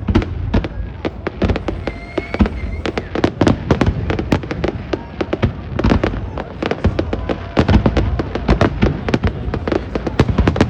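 Fireworks finale: a dense, irregular volley of sharp cracks and bangs, several a second, over a constant low rumble of shell bursts.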